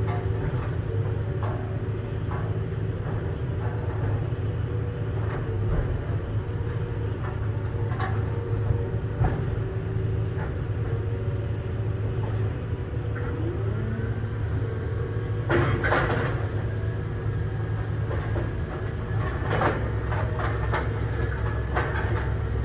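Idromec T 650 CLS hydraulic scrap metal shear baler working: the steady low drone of its power unit with scattered clanks and knocks of scrap metal, and two louder bursts of metal crashing, about 16 and 20 seconds in. A faint steady whine joins from about 13 seconds in.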